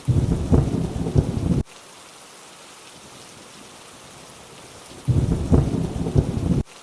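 Steady rainfall with two short, deep rumbles of thunder, each about a second and a half long, one at the start and one near the end; both cut off suddenly.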